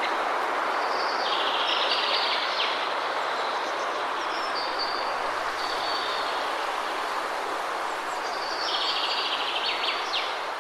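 Steady rush of a waterfall, with birds chirping over it: a burst of rapid high trilling about a second in and again near the end, and short high calls between.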